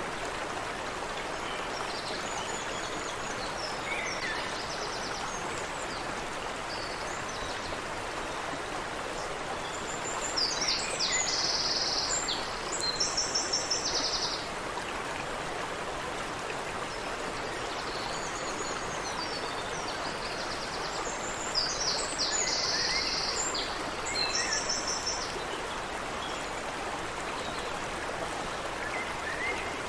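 Creek water running steadily over a small cascade, with songbirds singing high chirps and fast trills that come in two bouts, about a third of the way in and again after about two-thirds.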